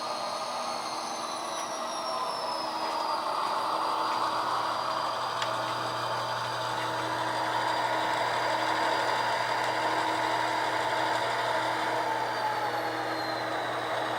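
HO scale GP38 model diesel locomotive running along the track, its sound decoder playing a diesel engine. A whine slowly drifts lower in pitch, and there are a couple of faint clicks.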